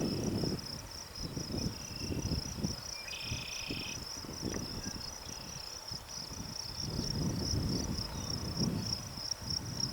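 Insects trilling steadily in a high, fast-pulsing drone, with gusts of wind buffeting the microphone; a brief chirp about three seconds in.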